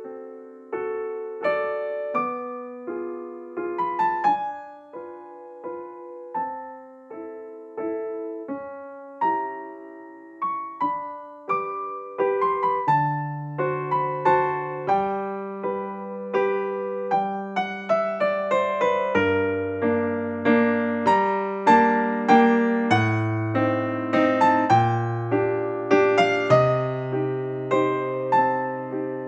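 Background music played on a piano or electric piano: a gentle melody of separate struck notes, with lower bass notes joining about halfway through.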